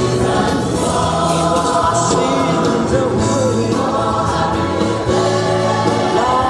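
Christian gospel music: a choir of voices singing over a steady instrumental backing.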